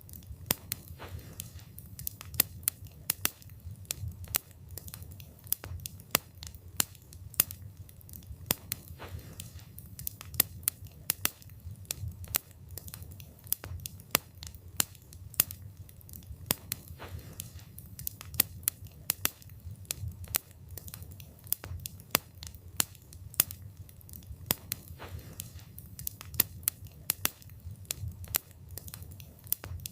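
Wood fire burning, the logs crackling and popping in quick irregular snaps over a steady low rumble of the flames.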